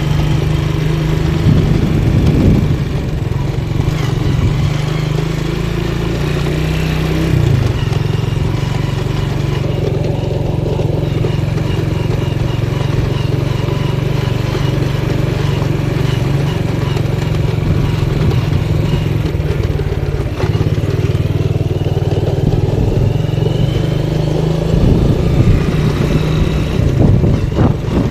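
Motorcycle engine running steadily and loudly, its note shifting a few times as the throttle or speed changes.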